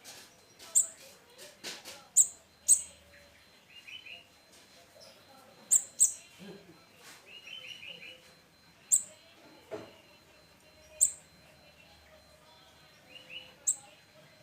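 Young little spiderhunter giving sharp, high single chirps every second or two, with a few softer short trills in between.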